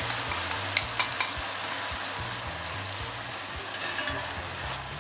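Food sizzling in hot oil in a frying pan as it is stirred, with three sharp clicks of the utensil against the pan about a second in.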